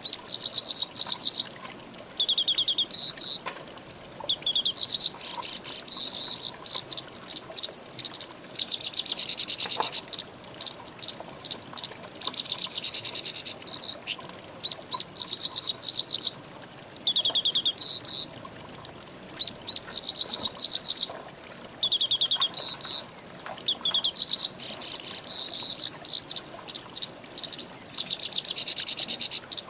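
Songbird singing: phrases of rapid, evenly repeated short notes that jump between several pitches and follow one another almost without a break. A steady faint high hiss runs underneath.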